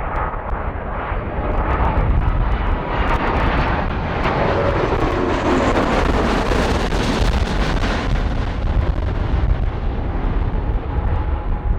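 Jet airliner passing close by on the runway, its engine noise swelling to a peak about six to seven seconds in, then fading.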